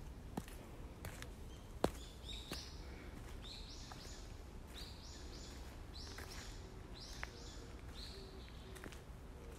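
Birds calling in a leafy forest: short, high chirps repeated again and again, over a steady low outdoor rumble. A few sharp clicks break in, the loudest about two seconds in.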